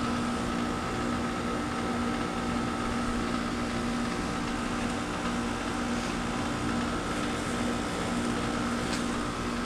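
Outdoor heat pump units running in heating mode: a steady compressor hum with a constant low tone and a higher whine over the even rush of the condenser fans.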